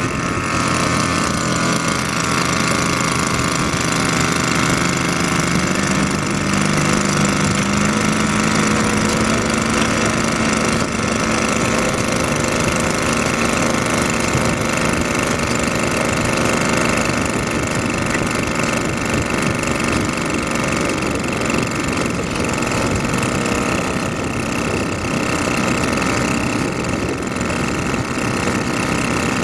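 Rice transplanter's engine running steadily, with its speed rising a little a few seconds in and then holding.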